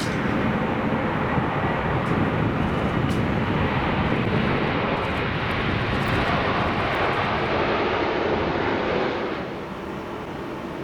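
Airbus A330-300 twin-engine jet airliner on its take-off run, with a loud, steady jet rush from its engines at take-off thrust. The sound drops off fairly sharply near the end.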